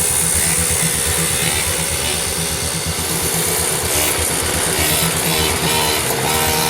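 Small two-stroke gas engine of a fifth-scale RC monster truck running with a fast, fluttering beat, its pitch shifting a little near the end.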